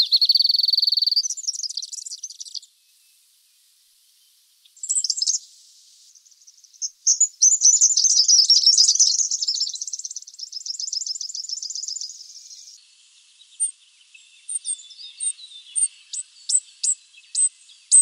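A sequence of high bird calls: a steady whistled note at the start, a fast trill through the middle, and a run of short sharp chirps near the end.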